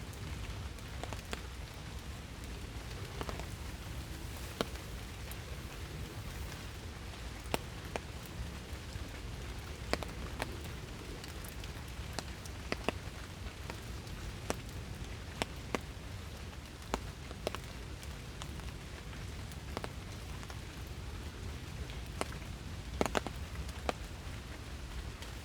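Steady rain falling in a forest, an even hiss with many separate drops tapping sharply and irregularly close by.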